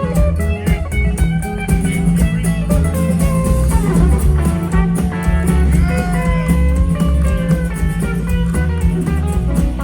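A live band playing an instrumental passage: lead guitar, with bent notes about six seconds in, over bass and drums.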